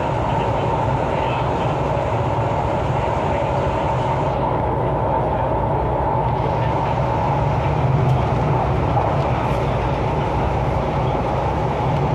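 MTR East Rail Line R-Train, a Hyundai Rotem electric multiple unit, running along the line with a steady rumble and running noise. A few faint ticks come about eight to nine seconds in.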